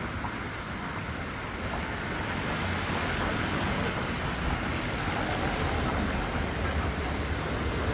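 Traffic on a rain-wet city street: a steady hiss of tyres and rain over a low rumble, slowly growing louder.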